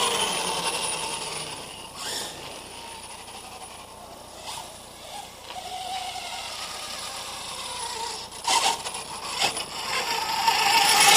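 Brushless electric RC monster truck running: a faint motor whine that rises and falls over a hiss, with a few sharp knocks, growing louder near the end.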